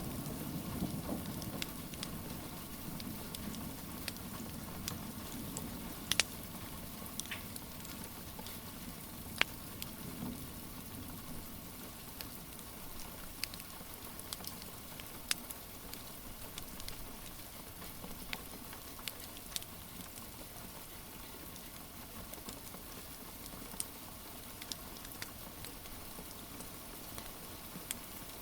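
Steady rain hiss mixed with a wood fire crackling: scattered sharp pops and snaps throughout. A low rumble fades out over the first few seconds.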